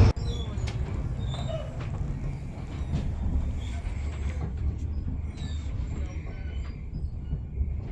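Low steady rumble of an old wooden-era railroad passenger car rolling along the track, heard from inside the car, with faint scattered clicks and short high squeaks over it.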